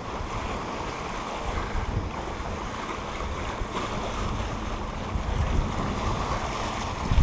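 Wind buffeting the microphone over a steady wash of sea water and small waves around a sailing yacht, with low gusts about two seconds and five and a half seconds in.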